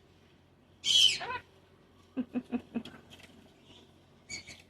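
Cockatoo calling: a loud squawk that falls in pitch about a second in, then a quick run of about five short, low chattering notes, and a brief high call near the end.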